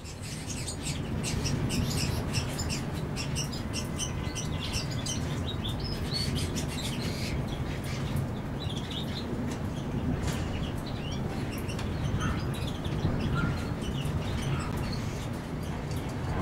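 Many small birds chirping in short high calls, thickest in the first half, over a steady low rumble.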